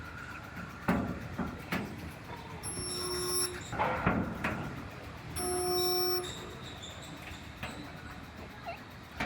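Resistance spot welder welding a replacement wheelhouse panel to a truck bedside: two welds, each a steady electrical buzz lasting about a second, with sharp clicks and clatter of the tongs being positioned and clamped between them.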